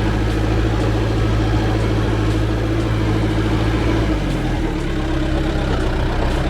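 Large engine running steadily, its note dropping a little about four seconds in.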